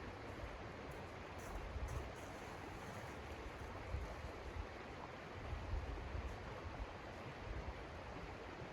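Blizzard wind blowing as a steady rush, with gusts buffeting the microphone in low rumbles now and then.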